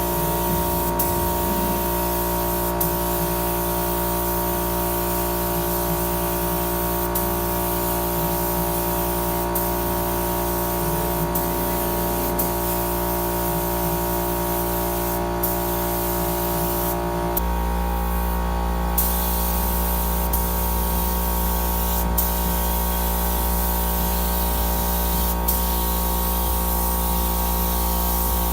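Air-fed paint spray gun spraying primer with a steady hiss, over a steady machine hum that changes pitch abruptly about 17 seconds in.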